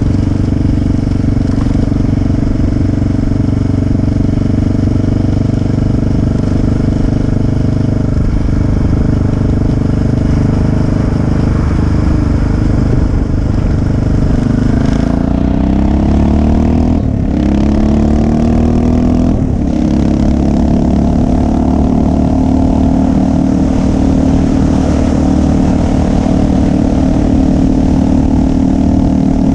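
Motorcycle engine running under way. About halfway through the revs drop, then climb again through two quick gear changes before settling to a steady cruise.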